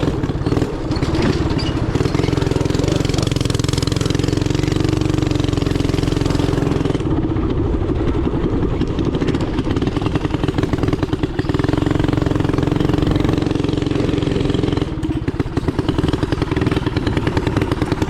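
Small single-cylinder gas engine of a backyard racing kart or mini bike running hard and loud close to the microphone, its note fairly steady with a brief dip near the end.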